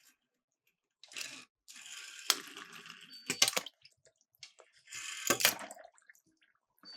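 Miniature toy cars dropping into water: three splashy bursts, each about a second long, with sharp clicks and knocks of the small cars among them.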